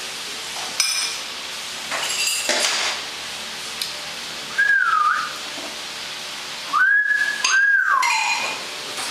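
Myna whistling: a short whistle that dips and rises again about halfway through, then two longer whistles near the end that rise, hold and fall away. Short harsh chattering bursts come in between.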